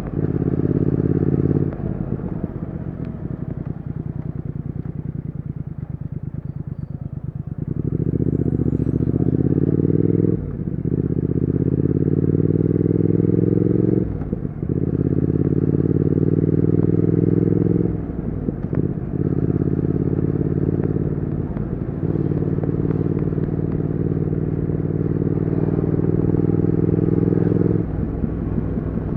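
Triumph Speed Twin 1200's 1200 cc parallel-twin engine and exhaust under way. It pulls hard in several stretches with its note rising, and is cut by brief dips that sound like gear changes. It eases back to a lighter, steady run in between.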